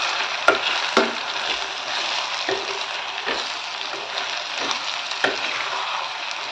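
Pumpkin pieces in a spicy masala sizzling in hot oil in a stainless steel kadhai as they are stirred with a metal spatula, with a steady hiss and the spatula knocking and scraping against the pan several times.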